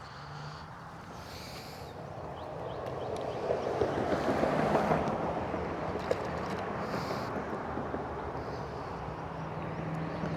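Road traffic going by: vehicle tyre and engine noise swells to a peak about four to five seconds in and stays up afterwards. Faint short high calls repeat every couple of seconds.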